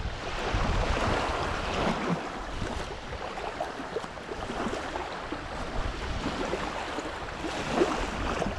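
Wind buffeting the microphone over a steady rush of small waves lapping at the shoreline.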